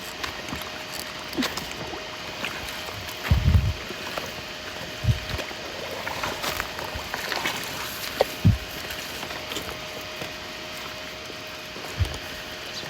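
Shallow muddy water sloshing and gurgling as someone wades and works by hand in a flooded field. Dull low thumps come about four times, with a faint steady tone underneath.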